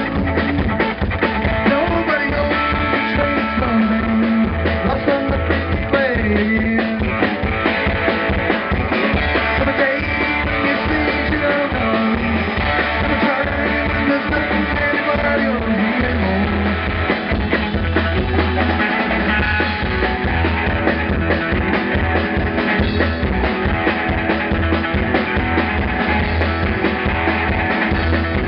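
Live rock band playing, with electric guitar, bass and drum kit.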